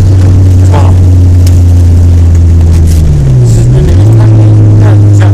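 Honda Civic 4WD engine pulling hard at a steady, loud pitch while driving on a snowy ice track; about three seconds in the engine note drops briefly and then picks back up.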